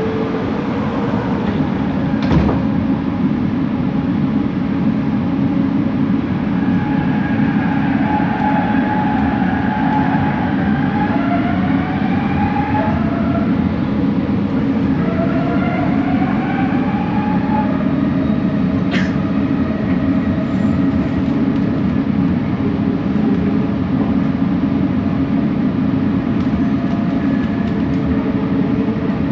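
Bombardier Innovia ART 200 train running, heard from inside: a steady low rumble with pitched whines from its linear-induction-motor drive that glide up and down through the middle, and a couple of sharp clicks.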